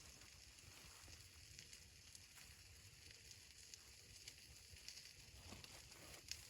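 Near silence: a faint hiss with scattered small ticks, the low crackle of a wood fire.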